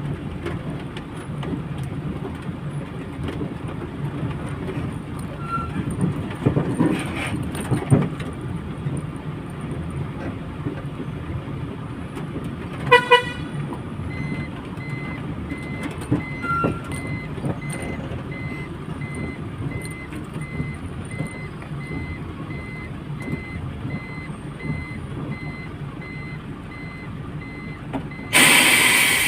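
Lorry on the move: a steady low engine and road drone. About halfway through comes a short pitched tone, followed by a faint, evenly repeated high beep. Near the end there is a loud hiss.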